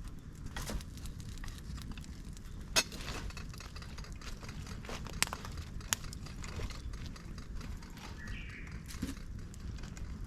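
Fire of dry bamboo and twigs burning in a fire pit, crackling with scattered sharp pops. The loudest pop comes about three seconds in, and two more follow about two and three seconds later.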